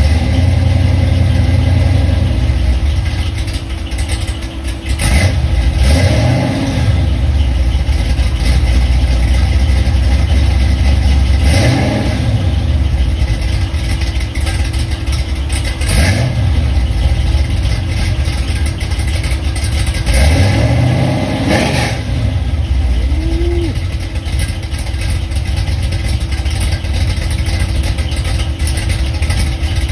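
1988 Oldsmobile Cutlass Supreme's engine idling through its exhaust and revved in short blips about four times, each rising and falling back to idle.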